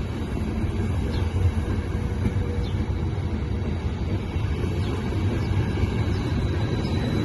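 Train moving on the tracks with a steady low rumble and a faint steady whine over it.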